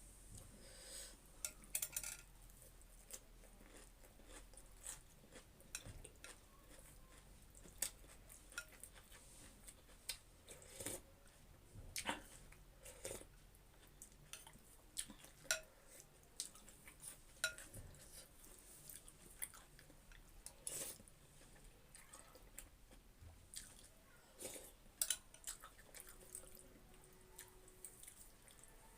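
A person eating chicken thukpa noodle soup up close: quiet chewing and mouth sounds, broken by irregular short clicks and taps of utensils against the bowl.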